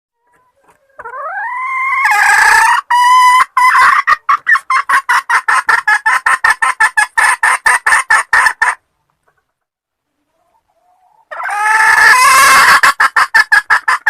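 Junglefowl hen calling, the call used to lure in a cock: each call opens with a drawn-out note rising in pitch, then breaks into a fast run of clucks, about five a second. A first call lasts several seconds; a second begins about eleven seconds in.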